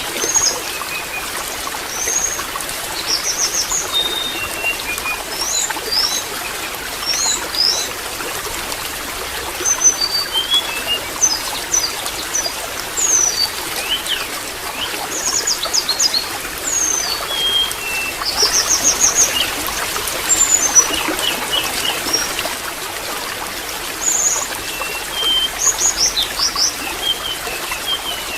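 Water trickling and splashing steadily, with small birds chirping and whistling in short, repeated phrases over it.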